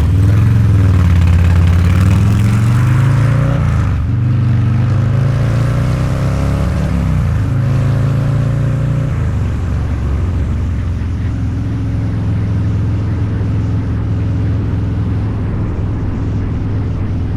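Harley-Davidson 129ci V-twin with a Two Brothers Racing exhaust accelerating on the road: the engine note rises, drops sharply about four seconds in as it shifts up, pulls up again, then settles to a steady cruise for the second half.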